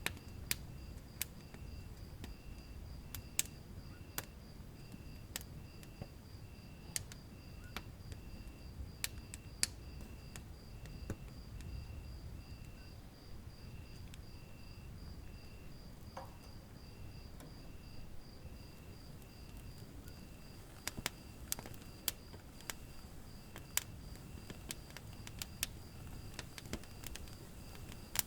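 Wood fire crackling in a fireplace: sharp snaps and pops, several in quick succession about three-quarters of the way in, over a low rumble. A high, evenly pulsing chirp runs throughout.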